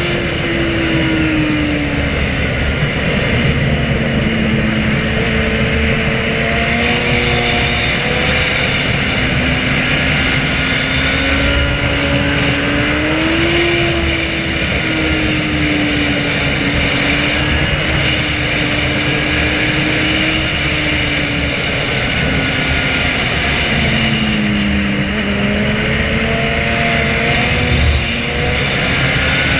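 Inline-four sportbike engine riding along a mountain road, its engine note rising and falling slowly as the throttle opens and closes through the bends, under a steady rushing noise.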